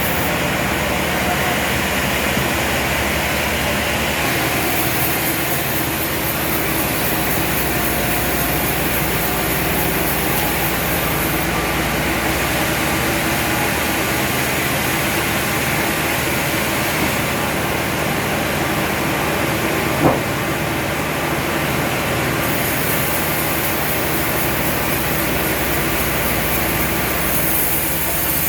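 Sawmill machinery running steadily, with a single sharp knock about twenty seconds in.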